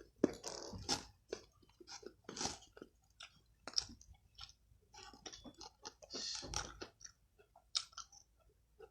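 A person chewing food close to the microphone: irregular wet, crunchy bites and smacks, several a second, with short pauses between.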